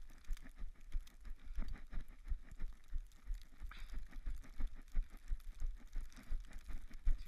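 A runner's footfalls in snow, about three soft thuds a second, mixed with the slaps of juggling balls being caught while running.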